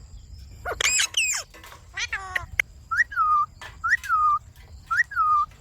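Indian ringneck parrot making whistled calls. A rising-then-falling call comes about a second in, then a quick run of falling notes. Three matching calls follow about a second apart, each rising briefly and then gliding down.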